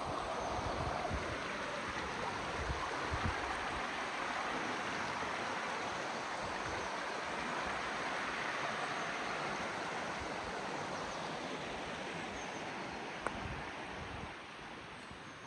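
River water rushing steadily over stones, growing a little quieter near the end, with a single sharp click about 13 seconds in.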